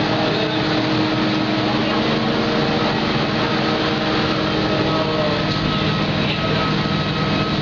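Steady hum inside a people-mover train car, with several constant tones from its motors or ventilation and people talking in the background.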